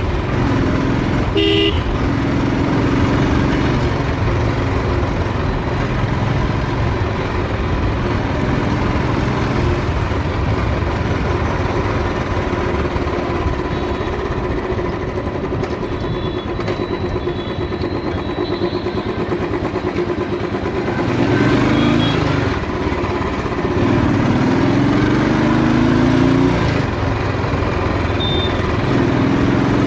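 Royal Enfield motorcycle engine running while riding, with wind rushing over the chest-mounted camera's microphone. The engine revs up in rising sweeps a few times in the second half. Other vehicles' horns toot briefly now and then.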